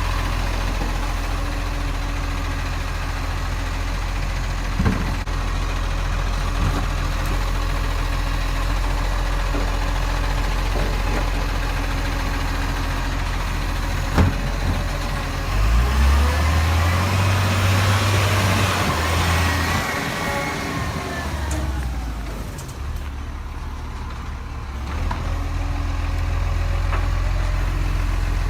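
Garbage truck's diesel engine idling steadily, with a few sharp clicks. About halfway through it speeds up, rising in pitch and falling back over several seconds before settling to idle again.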